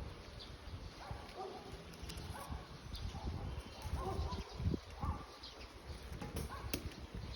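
Birds calling outdoors: short calls repeating about once a second, with a few higher chirps, over a low rumble.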